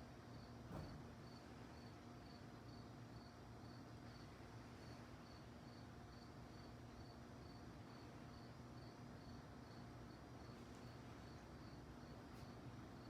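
Crickets chirping faintly and evenly, about three high chirps a second, over a steady low hum.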